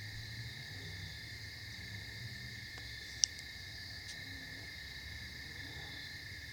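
Steady chorus of crickets chirping, with a few sharp pops from a crackling fire, the loudest about three seconds in. Underneath runs a low, distant drone of late-model race cars.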